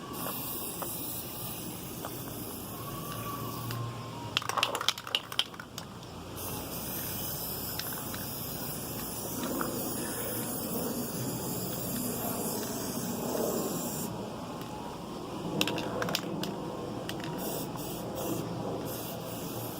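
Aerosol spray paint can hissing in two long bursts, the second lasting about seven seconds, with a few clicks and knocks in between and afterwards.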